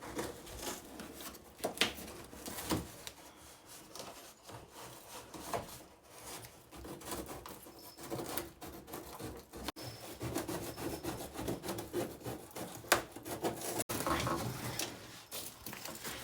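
Cardboard of a refrigerator's shipping box being cut down and handled: irregular scraping and rubbing, with a few sharp knocks.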